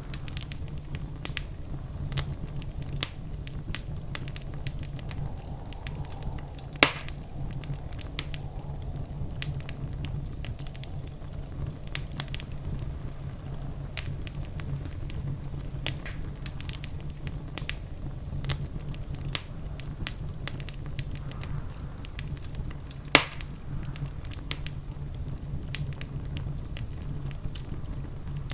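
Fireplace fire crackling steadily: a continuous low rumble with many small snaps and two louder pops, about a quarter of the way in and again about four-fifths through.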